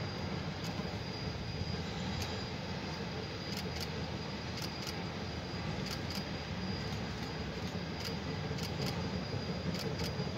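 Train rolling along, a steady low rumble with scattered sharp clicks.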